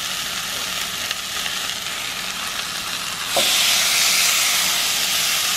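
Zucchini, red onion and green pepper sizzling in olive oil in a skillet. A little over three seconds in, seasoned raw shrimp are tipped into the pan and the sizzle gets suddenly louder.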